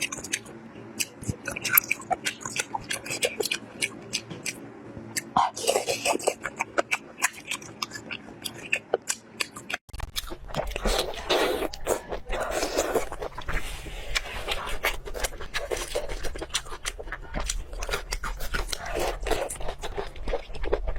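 Close-miked eating sounds: crunchy bites and chewing with many sharp clicks. About ten seconds in the sound cuts abruptly to another eating clip, where the chewing continues over a steady low hum.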